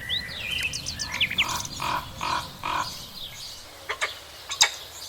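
Several birds singing and calling: quick high chirps and whistles, a lower call repeated four times about two seconds in, then a few sharp chips near the end.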